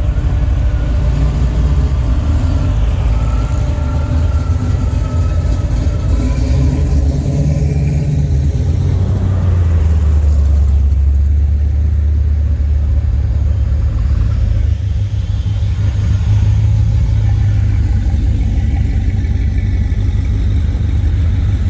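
Classic car engines running as the cars drive slowly past, a steady low engine sound that grows louder from about ten seconds in until about sixteen seconds in as one car passes close.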